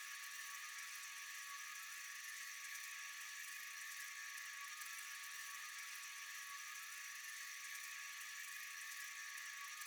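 Faint, steady, high-pitched night chorus of insects, an even shrill hiss with a few held tones that never changes.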